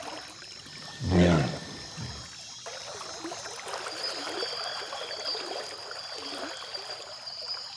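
Rainforest insects and frogs keep up a steady, high chorus at the water's edge. About a second in, one loud, low, grunting call lasts about a second.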